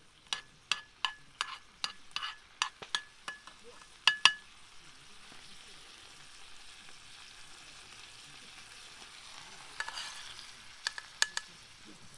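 Metal utensil tapping and scraping against a frying pan in a quick rhythm, about three ringing taps a second, with two louder knocks about four seconds in. Food sizzles softly in the pan through the middle, and a few more taps come near the end.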